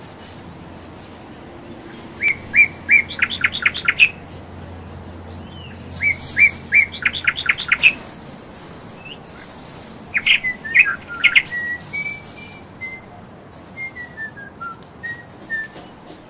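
A bird singing: two bursts of quick, bright chirping notes about four seconds apart, then a third burst followed by a run of softer whistled notes stepping downward.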